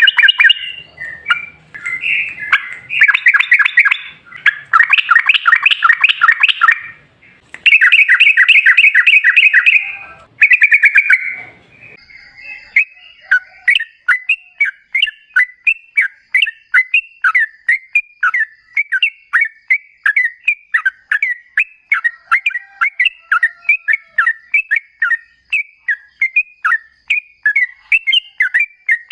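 Yellow-vented bulbul (trucukan) singing loudly: bursts of rapid, bubbly chattering phrases for about the first twelve seconds, then a long run of short, separate notes at about two to three a second.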